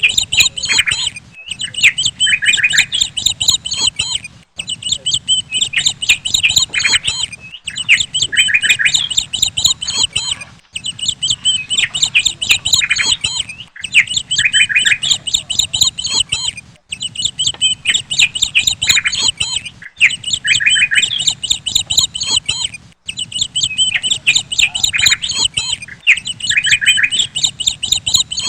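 Many birds chirping and squawking together in a dense, high-pitched chatter. The same stretch repeats about every three seconds with a brief break between repeats, like a looped recording.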